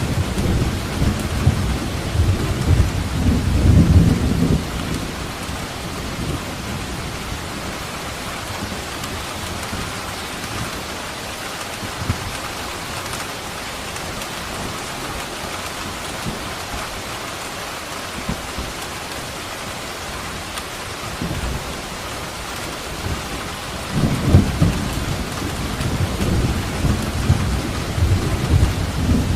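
Steady rain falling, with rolling thunder rumbling low for the first few seconds, dying away, then rolling in again a little over three-quarters of the way through.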